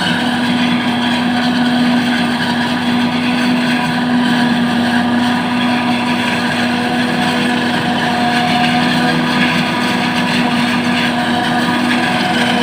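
An engine running steadily at constant speed, a continuous hum with no change in pitch or level.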